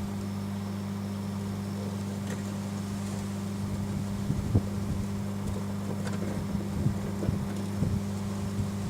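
Microwave oven running with a steady low hum. From about four seconds in come scattered crackles and sharp pops from the burning, sparking contents inside.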